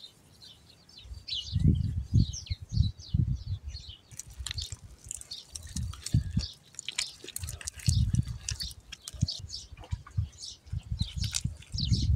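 Small birds chirping in quick, repeated short calls, over irregular low thuds and rumbles.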